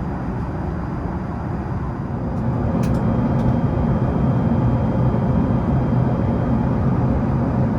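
Steady rumble of an Airbus A380 in flight, heard from inside the cabin: the Rolls-Royce Trent 970 engines and the rush of air over the fuselage. It grows louder and deeper about two and a half seconds in, with a faint click or two around then.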